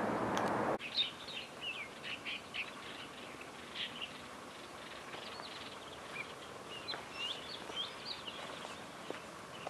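Small birds chirping in many short, high notes over a faint background. For the first second a louder steady rushing noise, from a building's vent unit, is heard; it cuts off abruptly.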